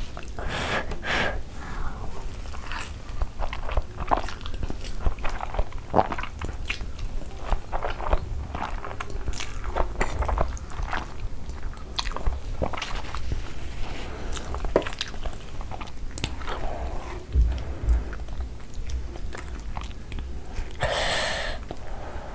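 Close-miked chewing and mouth sounds of a person eating saucy black bean noodles: irregular wet smacks and clicks, with a soft crunch here and there. One longer, louder burst of noise comes near the end.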